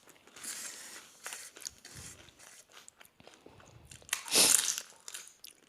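Close-up chewing and biting of doi fuchka, the yogurt-filled puri shells giving soft crackles and small clicks, with a louder crunchy bite about four seconds in.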